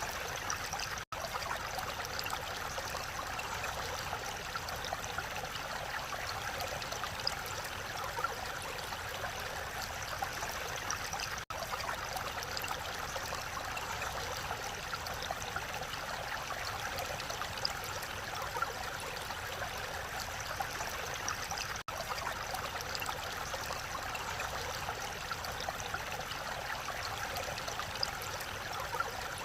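Mountain valley stream running over its bed in a steady, even rush, broken by three momentary dropouts about ten seconds apart.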